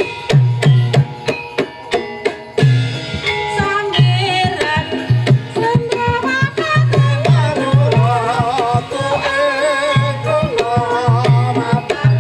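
Javanese gamelan music for a jaranan dance, led by kendang hand drums beating a steady, driving pattern under ringing metallophone tones. A wavering melodic line joins about four seconds in.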